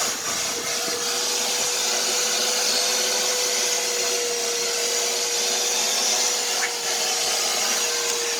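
A small electric fan motor running steadily: a constant rushing-air hiss with a steady mid-pitched hum that does not change.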